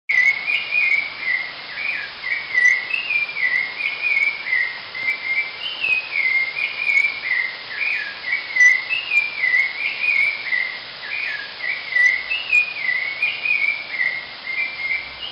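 Steady rush of a waterfall, overlaid by a continuous run of high, repeated chirping calls that rise and fall in pitch and stop suddenly near the end.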